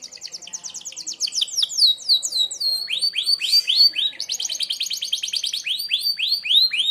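Domestic canary singing a fast, sharp trill of rapidly repeated high notes, about ten a second. About three seconds in, it shifts to a phrase of lower, falling notes, then runs on to an abrupt stop near the end.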